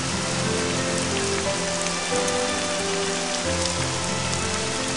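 Steady rain falling, with scattered small drop clicks, over soft music of low held notes that change slowly.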